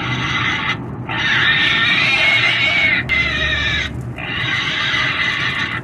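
Pig squealing: loud, high screams in three stretches, broken by short gaps about a second in and about four seconds in, the middle squeal the longest.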